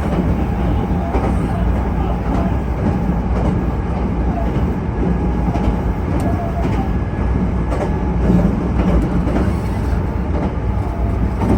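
Steady, loud rumble of a train on the line, with faint wheel clicks over the rail joints.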